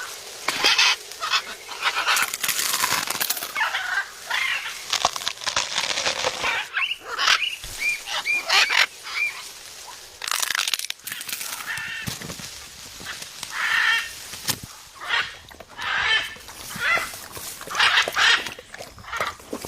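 Parrot calling repeatedly in harsh squawks and short chattering notes, with a few brief whistled chirps partway through.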